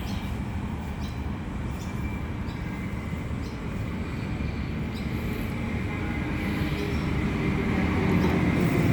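Diesel train moving through the station, its engine and wheels giving a steady low rumble that grows louder as it comes closer.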